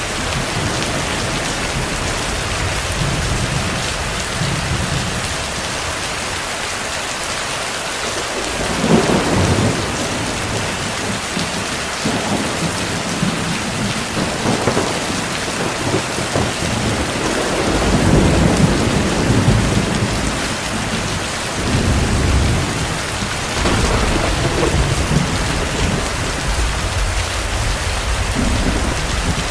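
Steady heavy rain with distant thunder rolling low in it: one rumble about nine seconds in, then a longer run of rumbling in the second half.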